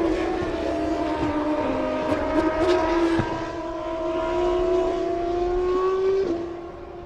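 1998 Formula One V10 racing engine running at high revs, its pitch climbing slowly and steadily. The pitch dips briefly early on, then falls sharply and the sound fades near the end.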